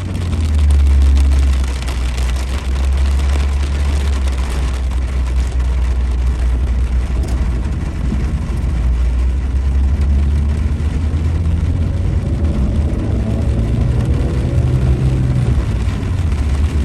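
Car driving on a wet road in heavy rain: a steady low rumble of engine and road with an even hiss of rain and tyre spray.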